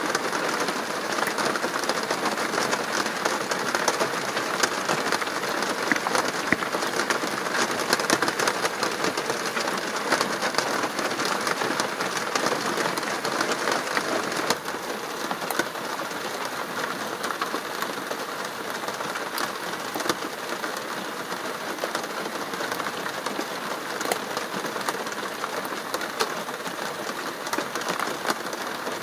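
Steady rain falling, a continuous hiss dotted with many small drop ticks; it drops a little in level about halfway through.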